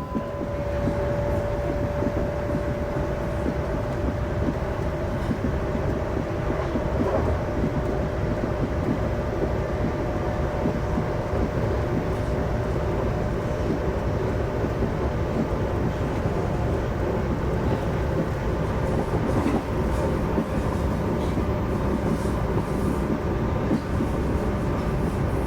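Inside a moving X51 (Bombardier Regina) electric multiple unit: a steady rolling rumble from wheels on rail, with a faint steady electric whine from the drive.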